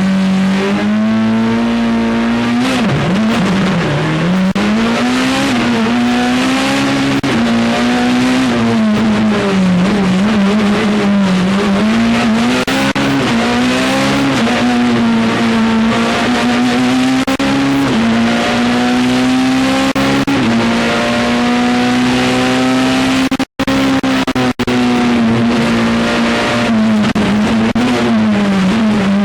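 Peugeot 207 Super 2000 rally car's naturally aspirated 2.0-litre four-cylinder engine heard on board at high revs, its pitch rising and dropping again and again through gear changes and lifts. The sound cuts out for a moment about 23 seconds in.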